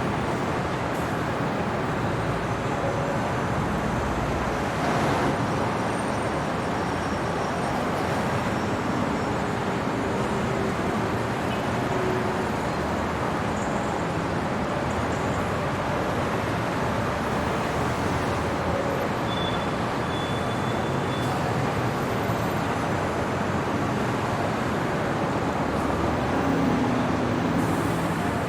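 Steady city traffic noise: a continuous, even wash of road vehicles with no single event standing out, and a few faint, brief higher tones now and then.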